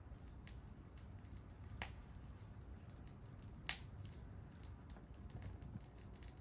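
Wood fire crackling: scattered small ticks and two sharper pops, about two seconds in and just under four seconds in, over a low steady rumble of the burning.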